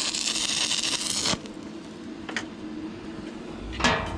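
Arc of a stick welder burning a 6011 electrode, a dense crackling hiss that cuts off about a second in when the arc is broken. A couple of faint knocks follow.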